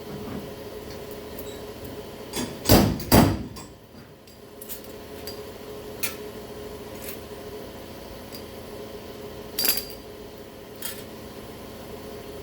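Hammer striking the truck's steel quarter panel: a quick run of loud metallic blows about two and a half seconds in, another loud blow near ten seconds, and lighter taps between. A steady hum runs underneath.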